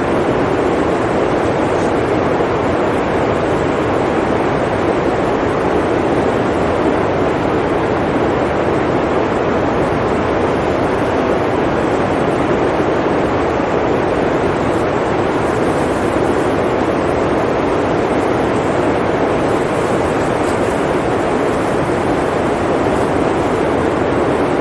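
Blizzard wind blowing as a steady, even rushing noise, without gusts or breaks.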